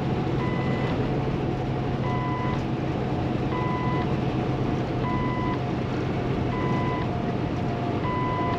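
Steady drone of the PACCAR MX-13 engine and road noise inside a semi-truck cab at speed, with a short electronic beep repeating about every one and a half seconds, six times.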